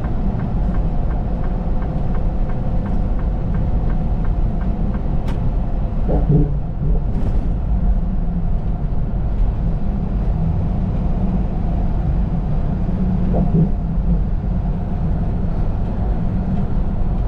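A semi truck's engine and road rumble heard from inside the cab while driving, steady throughout.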